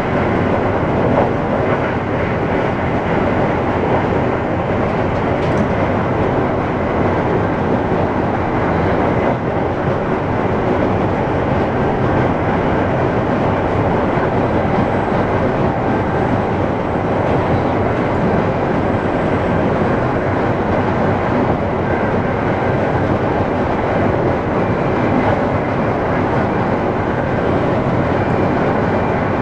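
Amtrak passenger train running at speed, a steady rumble and roar of wheels on rails heard from inside the rear car.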